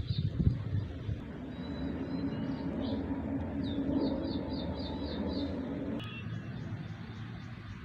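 Outdoor background: a motor vehicle running, its hum swelling over the first few seconds, with a bird giving quick series of high chirps about four seconds in and again near the end. The sound changes abruptly about six seconds in.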